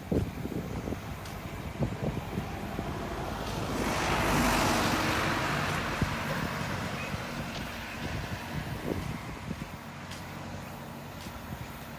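A road vehicle passing close by: a rush of tyre and engine noise that builds, is loudest about four seconds in, and slowly fades, over a low background rumble.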